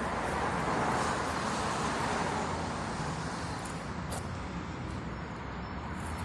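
Road vehicle noise: a steady rush of engine and tyre sound that swells about a second in, eases off, then builds again near the end.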